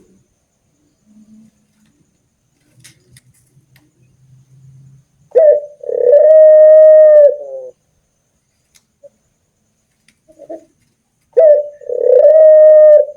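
A dove cooing loudly twice, about five and eleven seconds in: each coo is a short note followed by a long held note.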